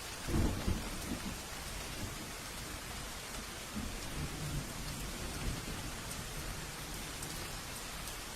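Steady rain falling, with a roll of thunder that breaks in just after the start and rumbles on more faintly through the middle.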